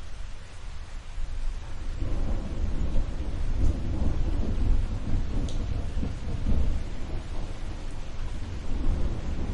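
Steady rain with thunder rolling in about two seconds in, a long low rumble that carries on to the end.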